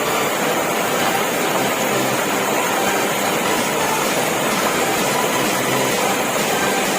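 Steady rush of water pouring down a small waterfall.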